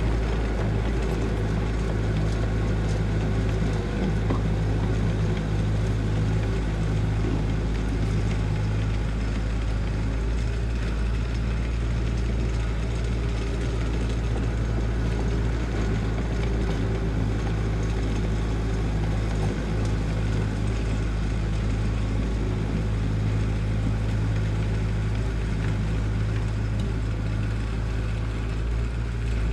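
Diesel engine of heavy construction machinery running at a steady speed, an even, deep hum with no revving.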